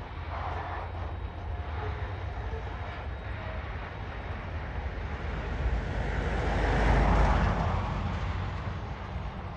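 Low steady rumble of a diesel freight train going away, with a broad rushing noise that swells and fades, loudest about seven seconds in.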